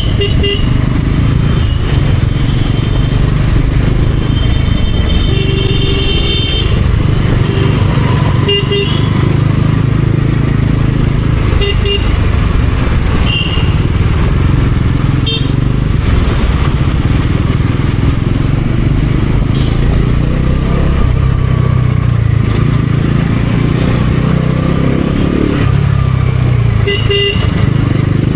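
Bajaj Pulsar NS400Z's single-cylinder engine running steadily under way in traffic, with short vehicle-horn honks several times: near the start, around the first few seconds, near the middle and near the end.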